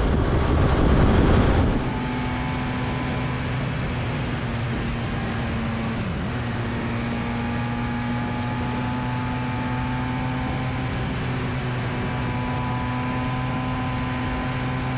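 Wind rush over the microphone for the first couple of seconds, cutting off abruptly. Then a motorcycle engine runs steadily at cruising speed, a constant hum that barely changes in pitch.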